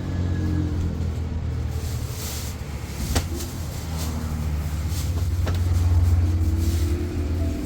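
Motor vehicle engine running with a steady low hum that swells about six seconds in. Two sharp clicks come at about three and five and a half seconds.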